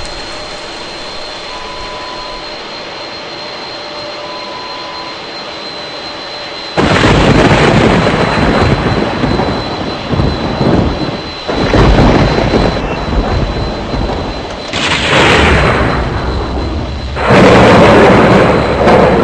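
Fokker 70 jet airliner noise: a steady hiss with a high, thin whine, then, from about seven seconds in, loud irregular rumbling surges that rise and fall several times.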